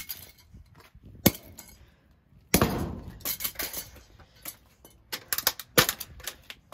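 Kambrook CX10 exhaust fan being smashed. A sharp blow at the start, another about a second later, then a heavier blow with crunching and rattling, and a quick flurry of cracking and clattering hits near the end.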